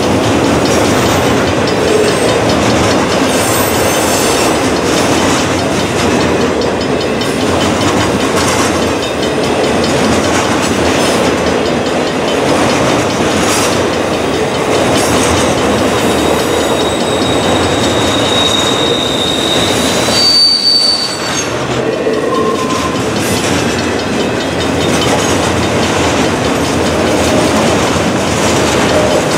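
Freight train of multilevel autorack cars rolling past: a steady rumble and clatter of steel wheels on the rails. Thin, high wheel squeals come in a little past halfway, one held for several seconds and another brief one just after.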